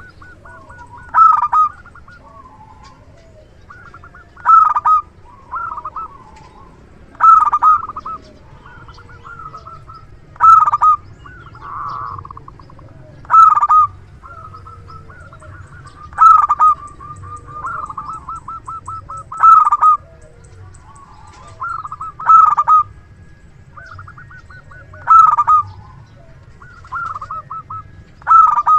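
Zebra dove cooing: a loud, quick-pulsed call repeated about every three seconds, about ten times, with softer runs of rapid cooing notes in between.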